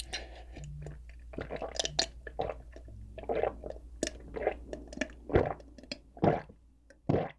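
A person chewing doughnuts close to the microphone: a dense run of short wet mouth clicks and smacks that thins out into a few louder ones near the end.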